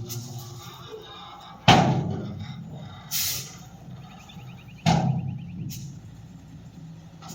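Dump truck unloading, with two heavy bangs about three seconds apart, each dying away over a second or so, and lighter clatters between them, over a steady low engine hum.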